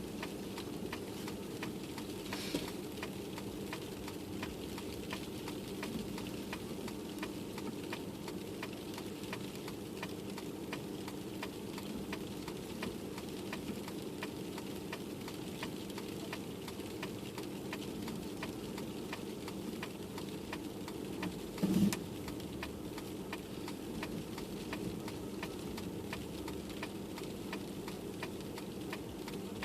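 Car cabin while driving in a snowstorm: a steady low hum with faint, rapid ticking over it, and a single short thump about twenty-two seconds in.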